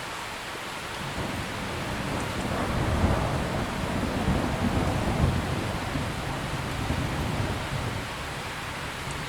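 Steady heavy rain with a long roll of thunder that swells about a second in, is loudest in the middle and dies away near the end.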